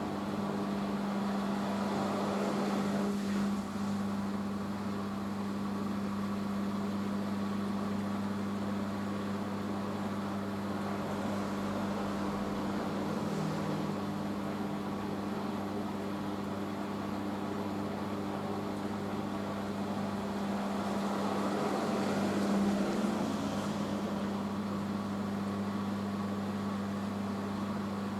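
Hoover H-Wash 500 washing machine in its rinse spin after the first rinse: a steady whirring over a low, even hum, swelling slightly twice.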